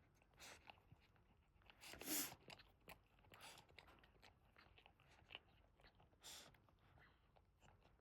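Faint wet licking and mouth sounds of a Boston terrier mother cleaning her newborn puppy, in short scattered bursts, the loudest about two seconds in.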